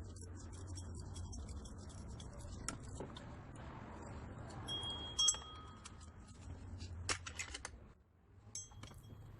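Metal hand tools clicking and clinking on engine parts while the power steering pump is being bolted in. There are scattered sharp clicks, a metallic clink that rings briefly about five seconds in, and a quick run of clicks a couple of seconds later. A steady low hum runs underneath.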